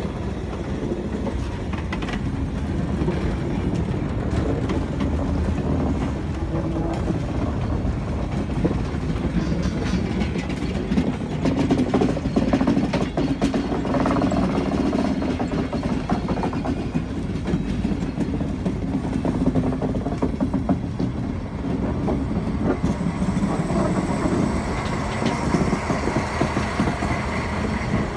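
Train of passenger coaches and goods wagons rolling past close by, wheels clicking rhythmically over the rail joints. Near the end the SNCF diesel locomotive 67615 at the rear passes, adding a steady higher tone.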